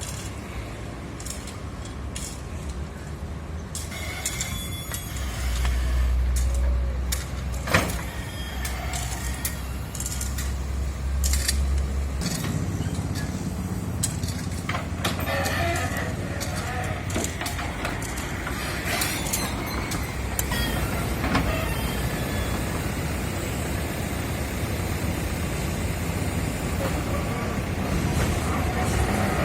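Heavy vehicle engines and street traffic: a steady low engine rumble, deepest for several seconds in the first half, with scattered knocks and clatter and a sharp clack about eight seconds in.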